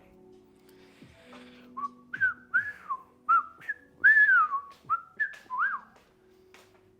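A person whistling a short tune: a run of about a dozen quick notes sliding up and down, starting about two seconds in and stopping near the end, over faint background music.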